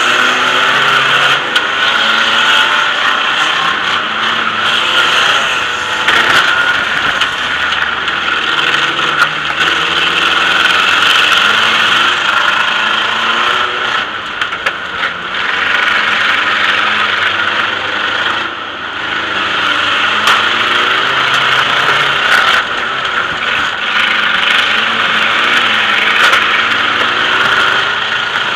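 Democross car's engine running and revving up and down, heard from inside the car's cabin, with a few short knocks scattered through.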